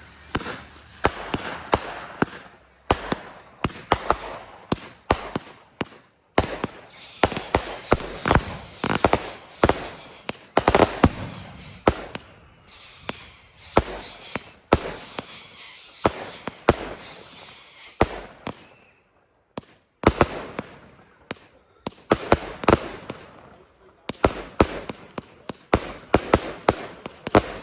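Fireworks going off in rapid succession: many sharp bangs and cracks, with a run of short falling whistles about twice a second through the middle, and two brief lulls.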